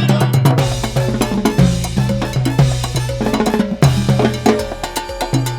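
Timbales played in a rapid salsa pattern of shell and rim strikes over a full salsa backing track with bass and band.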